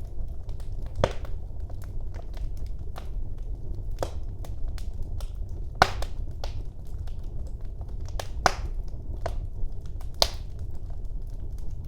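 Wood fire crackling in a fireplace: irregular sharp pops and snaps over a low steady rumble, with a few louder pops scattered through, the loudest near the end.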